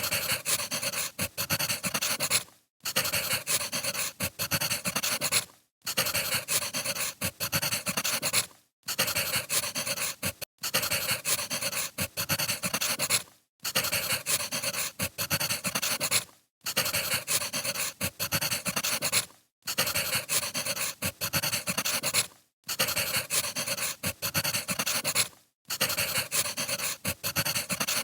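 Crackling of burning firewood, dense snaps and pops that drop out briefly about every three seconds in a regular looping pattern.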